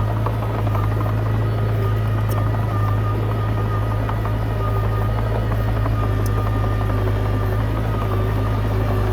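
Komatsu D20P bulldozer's diesel engine running steadily, a constant low drone with a faint steady whine above it.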